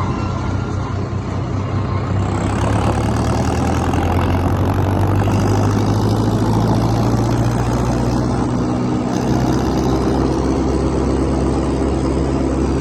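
Diesel tractor engines running steadily, with a low, constant engine note that shifts about nine seconds in.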